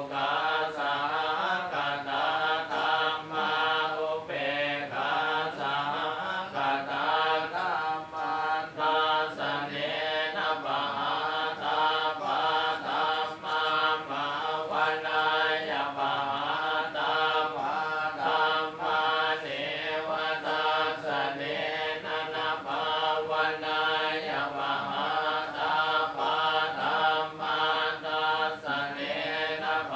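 Buddhist chanting in Pali: a continuous, rhythmic recitation held close to one pitch, syllable after syllable.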